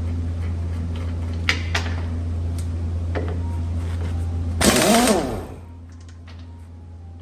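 A power wrench whirs for about a second, four and a half seconds in, its pitch falling as it winds down, while a loose lug nut or stud extender comes off a dump truck wheel. Light metallic clicks of the tools come earlier, over a steady low hum that drops away after the wrench stops.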